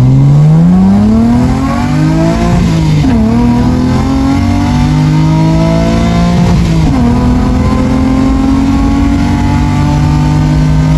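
Sports car engine heard from inside the cabin, accelerating hard and pulling up through the gears, with quick upshifts about three seconds and seven seconds in, the pitch climbing again after each.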